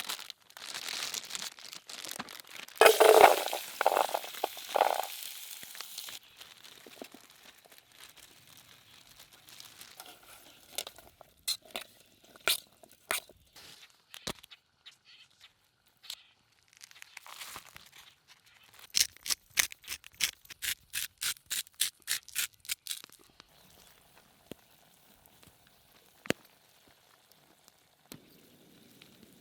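Food preparation handling noises: crinkling and tearing over the first few seconds, then scattered clicks and knocks, and a quick even run of taps, about four a second, lasting a few seconds in the second half.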